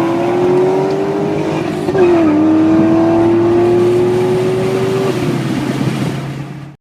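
2006 Pontiac GTO's 6.0-litre LS2 V8 under hard acceleration, revs climbing through a gear. About two seconds in it shifts up, with a sharp drop in pitch, then pulls and climbs again until the throttle comes off near the end.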